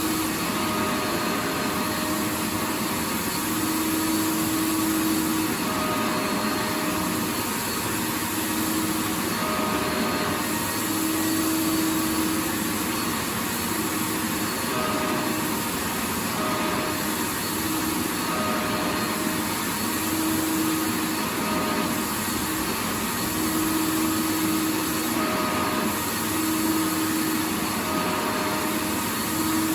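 Vacuum cleaner running steadily: a continuous hiss of air over a motor hum that swells and fades every second or two.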